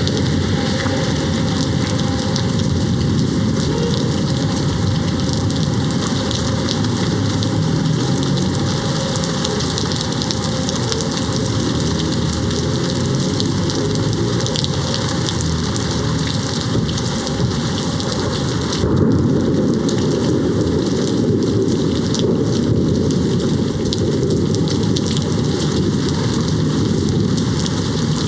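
Steady heavy rain hitting a window. About two-thirds of the way in, a low rumble of distant thunder rises under it.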